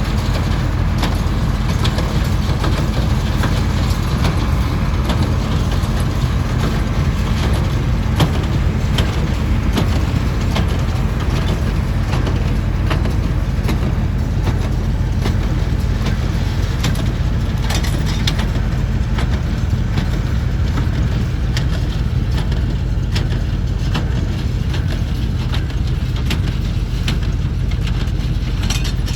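A vehicle's engine running steadily with a constant low hum while on the move, with occasional small knocks and rattles over the top.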